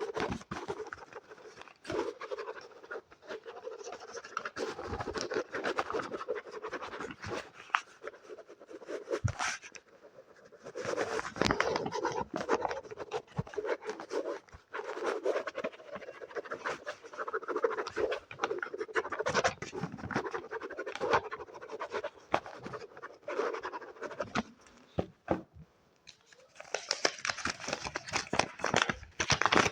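Scratching and rubbing close to a sensitive microphone, in uneven spurts with many small clicks and short lulls, the kind of close-up scratching trigger made on a book.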